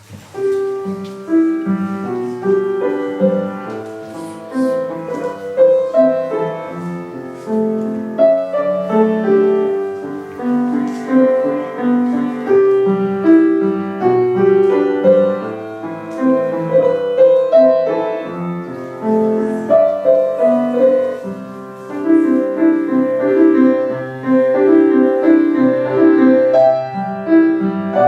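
A piano playing a piece of classical-style music, with chords and a melody in a steady flow of notes; it begins right as the host's talk ends.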